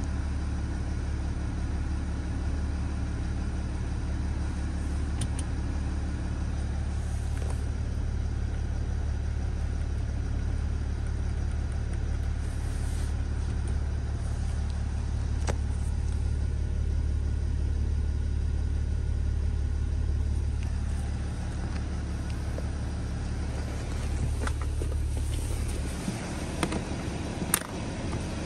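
BMW diesel engine idling, a steady low hum heard from inside the cabin. Near the end the hum drops away and there are a couple of sharp clicks.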